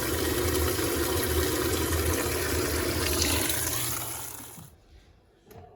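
Electrolux LTC07 top-loading washing machine running water, a steady rush over a low hum, which fades and stops about four and a half seconds in. A faint knock follows near the end.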